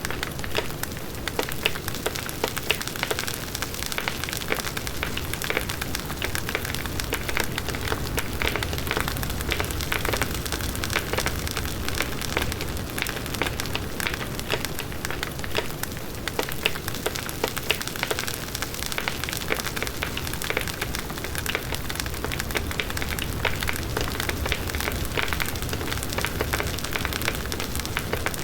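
Large wood bonfire burning: dense, steady crackling of the burning wood over the rush of the flames.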